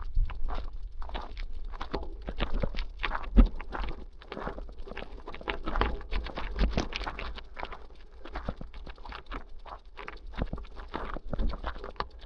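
Bicycle rattling and clicking as it rides over a bumpy surface, with irregular knocks throughout and a steady low rumble of wind on the microphone.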